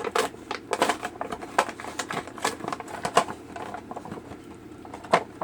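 Cardboard and plastic toy packaging being handled and opened: irregular crinkling and clicking, with a sharper snap near the end.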